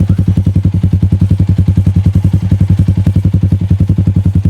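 Yamaha New Vixion's single-cylinder four-stroke engine idling through a custom Akrapovic GP Lorenzo-style exhaust, making a steady, deep train of exhaust pulses at about a dozen a second.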